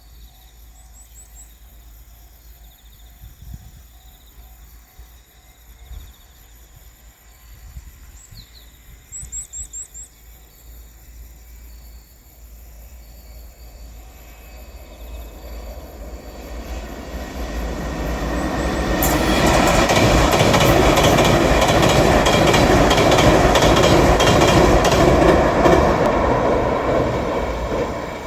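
JR Shikoku 8000 series electric limited express train passing over a railway bridge. It grows from faint to loud over several seconds and stays loud for about seven seconds with rapid wheel clicking over the rails, then starts to fade near the end.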